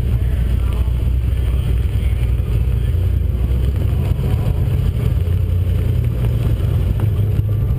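2010 Chevrolet Camaro's engine running at low speed, a steady low rumble as the car rolls slowly.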